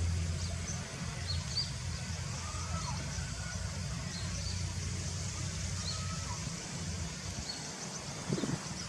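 A bird giving short, high chirps about every two seconds, over a steady low rumble.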